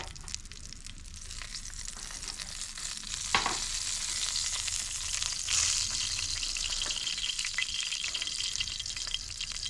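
Steady sizzling crackle over the fire pit, getting louder about three seconds in, where a short falling sound also cuts through.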